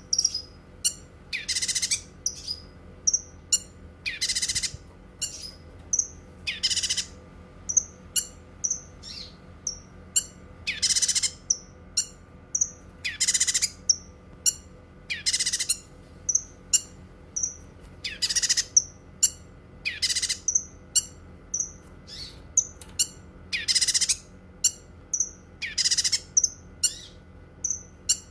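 Cucak kinoi songbird singing: loud, harsh notes about every two seconds, with quick high chirps and ticks between them.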